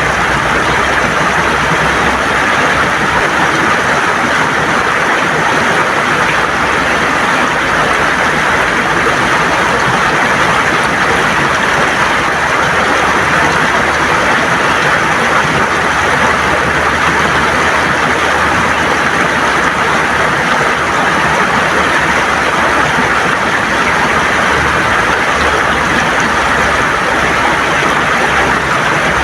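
River water gurgling and rushing over stones, a steady, loud, unbroken wash of water noise.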